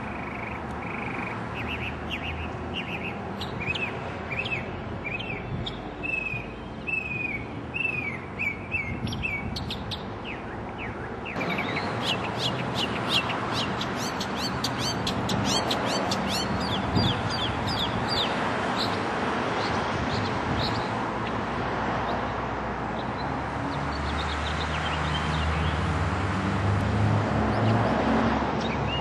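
A songbird singing: runs of short, quickly repeated chirping notes over steady background noise, which grows louder about eleven seconds in. A low rumble joins near the end.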